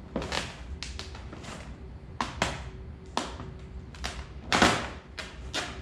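Squeegee strokes across vinyl wrap film on a car door: about a dozen short, irregular swipes, the loudest about three-quarters of the way through, over a steady low hum.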